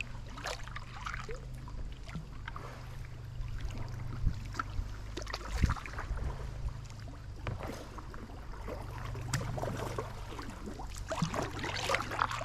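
Steady low rush of flowing river water, with scattered small clicks and rustles of close handling on top.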